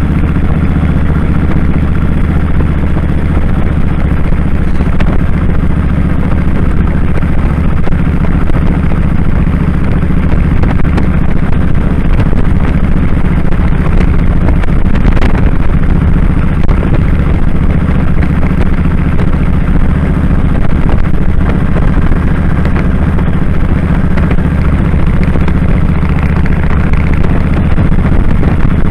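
2001 Kawasaki Drifter 1500's V-twin engine running steadily at an unchanging engine speed while the motorcycle is ridden, heard from the rider's position.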